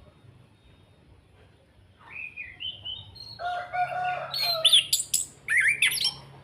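Chestnut-capped thrush (anis kembang) singing: after about two seconds of quiet, a loud, varied run of whistles and quick sharp down-slurred notes, growing busier toward the end.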